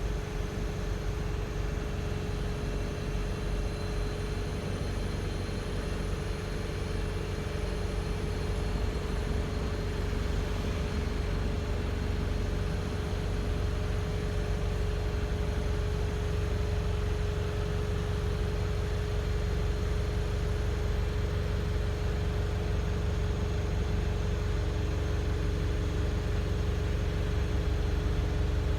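Wright StreetLite single-deck bus engine running as the bus drives: a steady low drone with a constant whine over it, and a second, lower whine joining near the end.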